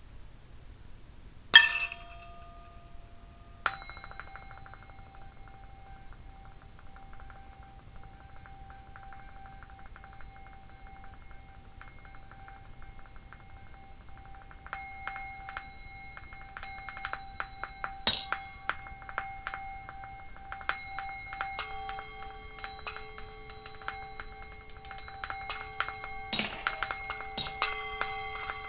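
Ceramic plates played as improvised percussion: a sharp strike, then another that leaves several clear tones ringing on for many seconds. About halfway in, a rapid, thickening stream of light clinks and taps builds over the ringing, with new pitched tones joining and another strike near the end.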